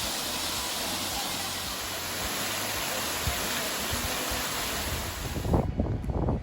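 Steady rush of a waterfall's falling water, an even roar that cuts off suddenly about five and a half seconds in, when music with a pulsing beat takes over.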